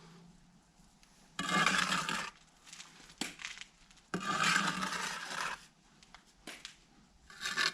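Brick being scraped. There are two long, rough scraping strokes, with a few light taps between them and a shorter stroke near the end.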